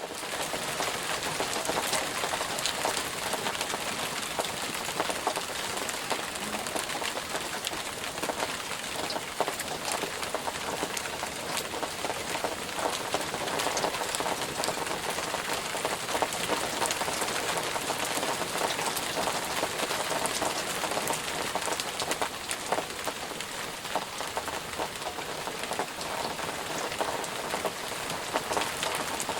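Steady rain falling and pattering on a surface, a dense hiss studded with individual drop ticks.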